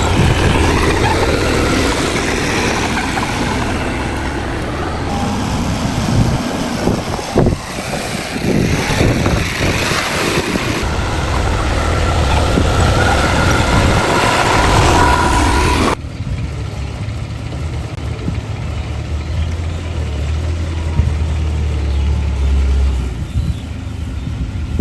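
Heavy diesel earthmoving machinery working, a bulldozer and dump trucks, with a steady low engine rumble and a few sharp knocks. The sound changes abruptly about two-thirds through, turning duller and a little quieter.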